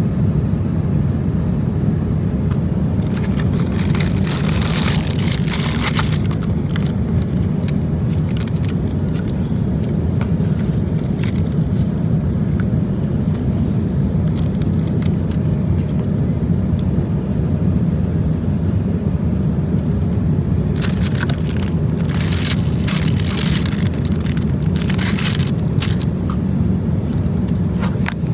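Steady low roar of an Airbus A350-1000's cabin in flight, from engine and airflow noise. Brief rustling noises come through a few seconds in and again for a few seconds near the end.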